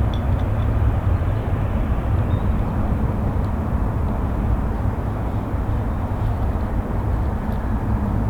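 Steady rumble of a Boeing 777-300ER's GE90 turbofan engines running, with a heavy low-end rumble and no change in level.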